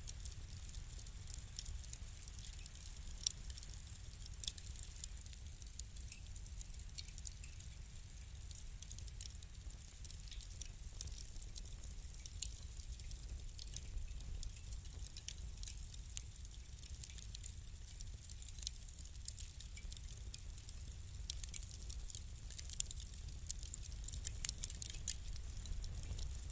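Burning wood in a fireplace crackling, with scattered sharp pops over a low steady rumble; the pops come more often near the end.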